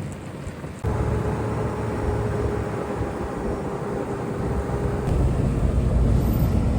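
Coach bus running on the road, heard from inside the cabin: a steady low engine and road rumble with a faint steady whine. The sound jumps up abruptly about a second in, and the rumble grows louder for the last couple of seconds.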